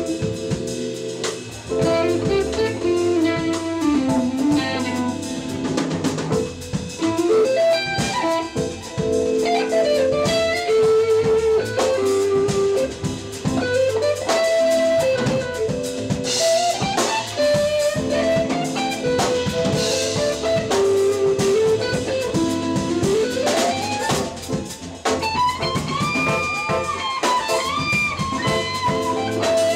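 Live jazz band playing an instrumental break with no singing: a guitar lead with bent, sliding notes over bass, keyboard chords and drum kit, with cymbal crashes about halfway through.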